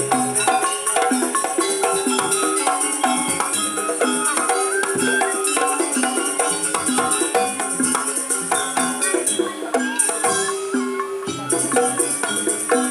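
Jaranan dance accompaniment: a gamelan-style ensemble of drums and struck metal notes playing a busy rhythmic melody, over a constant high jingling that falls away briefly near the end.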